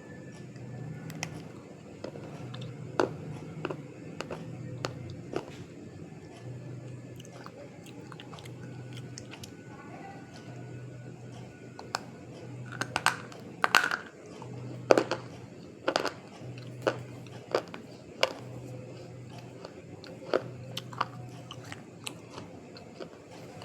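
Close-up bites and chewing of brittle dry white clay pieces: sharp, irregular crunches that come thickest in the second half, over a faint low pulsing hum.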